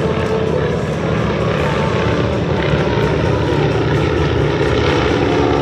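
Radial engines and propellers of Boeing-Stearman biplane trainers flying over, a steady loud drone with a constant pitched hum.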